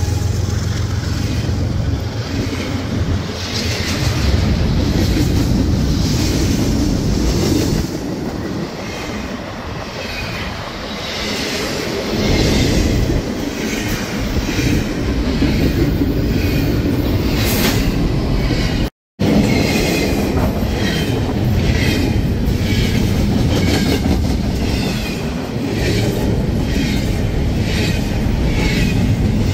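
A train passing close by, a steady rumble of wheels on rail. In the second part, the wheels click over rail joints in a regular clickety-clack. The sound cuts out for a moment about two-thirds of the way through.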